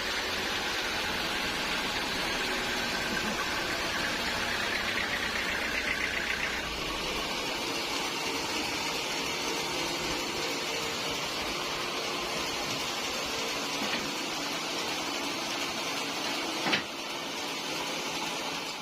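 Sawmill saw running steadily through a teak log, a noisy mechanical whir. A higher whine in it stops about a third of the way through, and a single sharp knock comes near the end.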